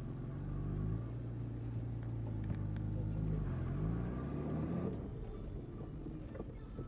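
Car engine running while driving, heard from inside the cabin. Its pitch drops and then climbs again about three and a half seconds in, and it turns rougher afterwards.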